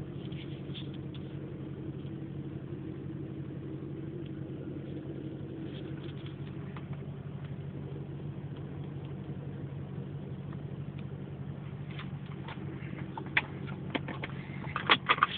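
Toyota Soarer's engine idling steadily, heard from inside the cabin, with a few sharp clicks and knocks near the end.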